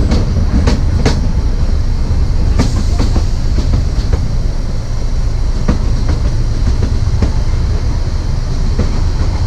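Narrow gauge train running on the track, heard from on board: a steady heavy rumble broken by wheel clicks over the rail joints at uneven intervals.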